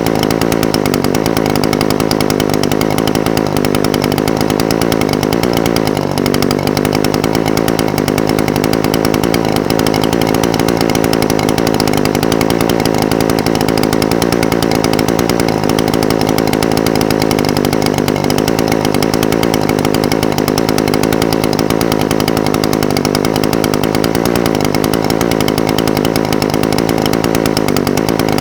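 Echo SRM-420TES brush cutter's two-stroke engine idling steadily, its pitch wavering only slightly.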